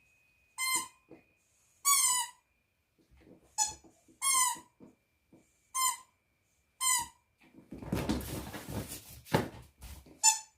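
A squeaky dog toy squeaking in about seven short, sharp squeaks, each falling in pitch, spaced irregularly as it is bitten. A stretch of rustling and scuffling with a knock comes near the end.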